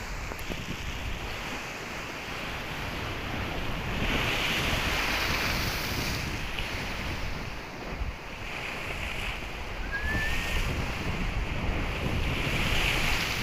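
Big waves breaking and washing up the shore in strong wind, the surf swelling in several surges, with wind buffeting the microphone. A brief faint rising chirp about ten seconds in.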